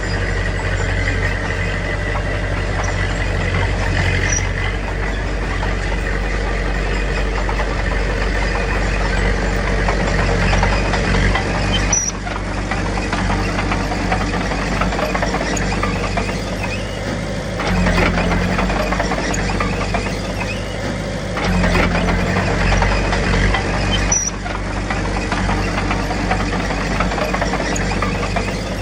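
Heavy diesel earthmoving machinery running steadily, the engine note stepping up and down a few times. A few sharp knocks stand out over it.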